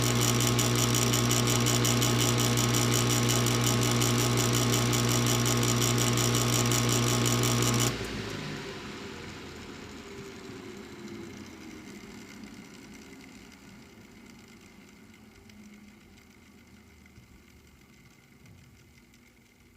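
A furnace motor running with a loud hum and a fast, even rattle. It cuts off abruptly about eight seconds in, then winds down, falling in pitch and fading away.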